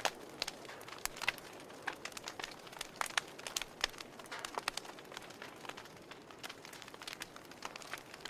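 A fire crackling, with irregular sharp pops and snaps, several a second, over a soft steady hiss.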